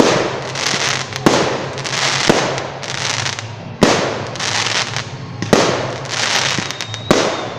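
Festive fireworks salute: aerial shells bursting with about six sharp bangs, one every second or two, each trailing off in a fading hiss.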